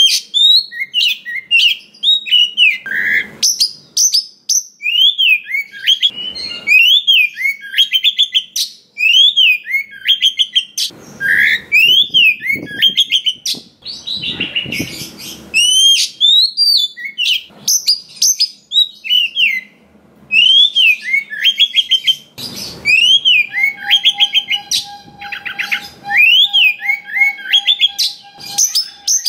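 Oriental magpie-robin (kacer) singing a fast, varied song of repeated rising-and-falling whistled notes, broken every few seconds by harsh, rasping bursts.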